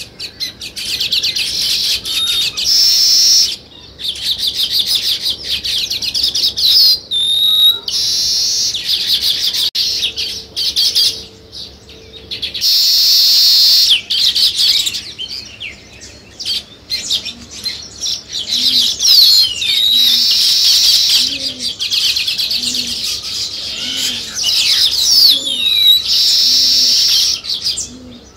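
Weaver birds chattering: long runs of dense, rapid chirping broken by short pauses, with a few gliding whistled notes.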